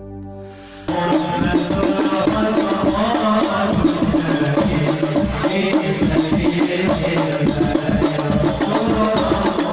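Hadroh ensemble music: after a soft held note, rebana frame drums and percussion come in loudly about a second in and play a fast, dense rhythm under sustained pitched sound.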